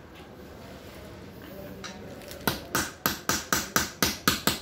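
About nine quick, sharp metal taps, roughly four a second, starting about halfway through: a small watchmaker's hammer tapping out the pins of a metal watch bracelet to remove links.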